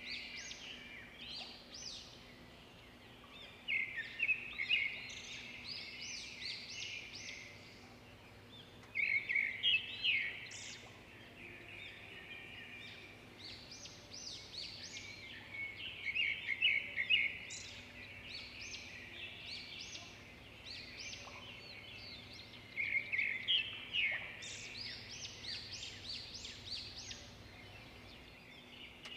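Birds chirping in bursts of quick, high notes that come again every several seconds, over a faint steady low hum.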